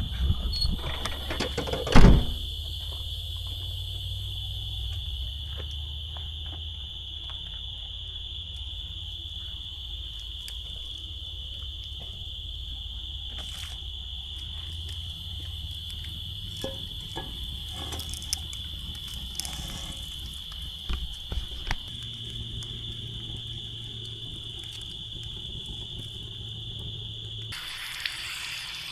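Insects, likely crickets, chirring in one steady high-pitched drone, with a low rumble underneath. A sharp knock sounds about two seconds in, and small clicks come and go.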